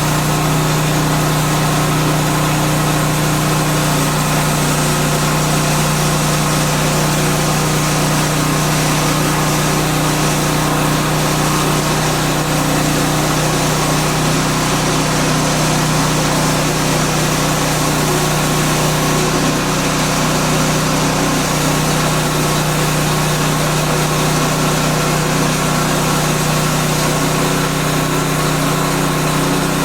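Gasoline engine of a portable bandsaw sawmill running steadily with an even hum.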